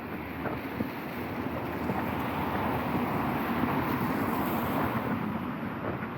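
Traffic noise on a wet street in the rain, swelling for a few seconds in the middle as a vehicle goes past, with a few light ticks.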